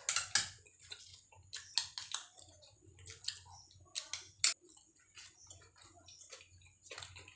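Two people eating luchi with potato curry and ghugni by hand: an irregular run of short, wet chewing and lip-smacking clicks, one sharper smack about four and a half seconds in.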